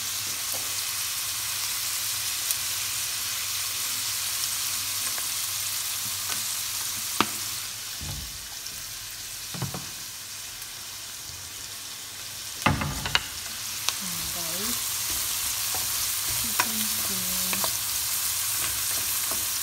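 Chopped onion and garlic sizzling in olive oil in a stainless steel pan, stirred with a wooden spoon. The sizzle drops lower in the middle, while a few sharp knocks and clatters sound, the loudest a cluster a little past halfway.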